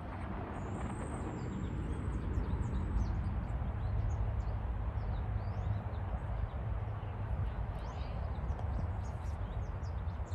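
Small songbirds chirping and twittering over and over, with a steady low rumble underneath.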